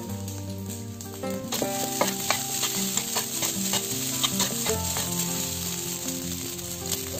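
Fried rice sizzling in a non-stick wok while a spatula stirs and tosses it, with repeated clicks and scrapes of the spatula against the pan from about a second and a half in.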